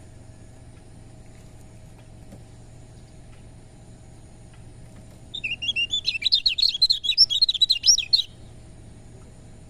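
A kecial kuning (white-eye) singing a fast, chattering burst of high chirps lasting about three seconds, starting a little past halfway, over a faint steady hum.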